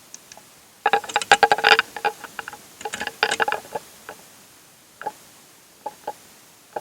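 Small hard-plastic clicks and rattles from a car's interior light housing being jiggled and pried, in two quick flurries about a second and three seconds in, then a few single clicks near the end.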